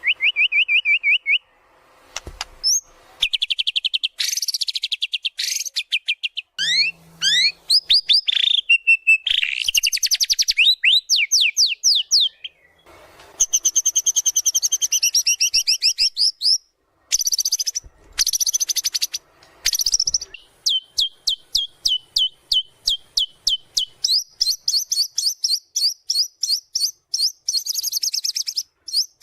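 White-rumped shama singing a long, varied song: sweeping whistles, fast trills and runs of quick repeated notes, with short pauses between phrases.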